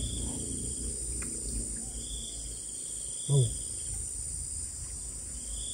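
Insects chirring in the background: a steady high-pitched drone with shorter, lower trills repeating every second or so. About three seconds in, a brief vocal sound from a person cuts in.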